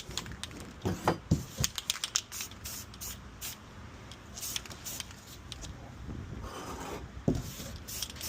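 Short hissing squirts of aerosol parts-cleaner spray, mixed with light scrapes and clicks from small engine parts being handled. A soft knock comes about seven seconds in.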